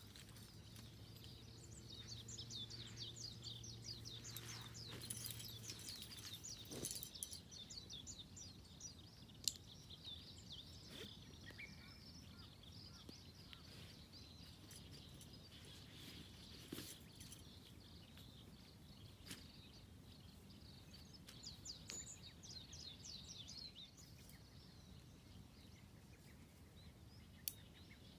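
Quiet outdoor ambience with high, rapid trilling calls from wild creatures. There are two runs of several seconds each, one at the start and one past the middle. A few faint clicks are scattered through it.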